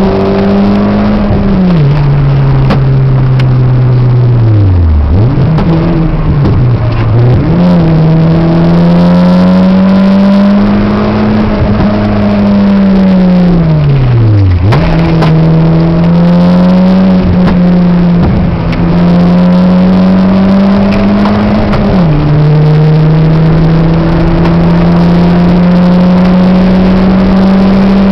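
Peugeot 206 engine heard from inside the cabin, driven hard on track. Its pitch steps down at gear changes about a second and a half in and again about three-quarters of the way through. It falls away sharply twice, around five seconds in and near the middle, and climbs back under acceleration each time, over steady wind and road noise.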